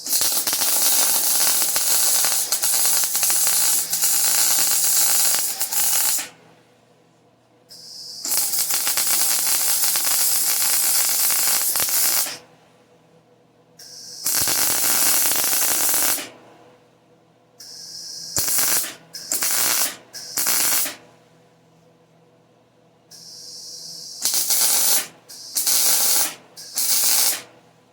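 Wire-feed (MIG) welder laying beads with a steady crackling sizzle, in three long runs and then several short bursts, with a brief hiss before most of them. The arc is stopping and restarting on thin tubing that blew through, a hole burned through that is being welded back up.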